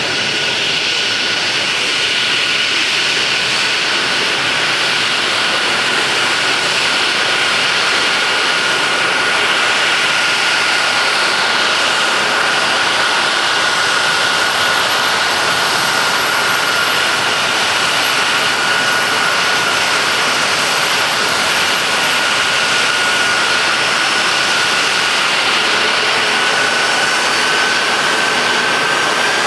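Boeing E-3F Sentry AWACS jet engines running steadily, a loud, even rush with a high whine that sags slightly and then rises toward the end.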